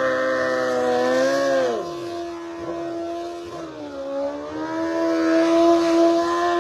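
Drag car engine running at high, steady revs; its pitch drops about two seconds in, then climbs again and holds before the sound cuts off abruptly.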